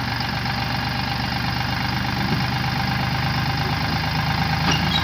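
Powertrac Euro tractor's diesel engine running steadily at idle.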